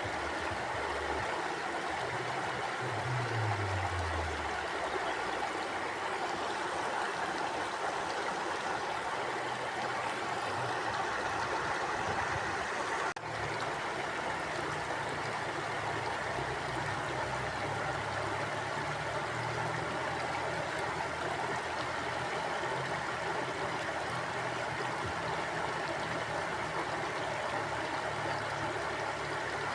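Mountain river flowing over rocks, a steady rushing and gurgling of water with low burbling underneath. The flow drops out for an instant about halfway through.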